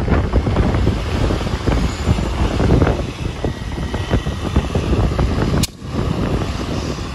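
Vehicle road noise with heavy wind buffeting the microphone. The sound breaks off for an instant near the end.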